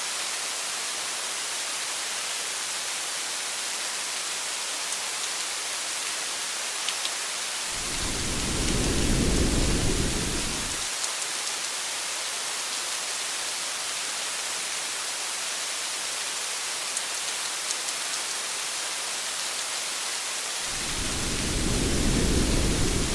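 Steady rain hiss with a few faint drop ticks. Two low rolls of thunder rumble under it, each about three seconds long, the first about eight seconds in and the second near the end.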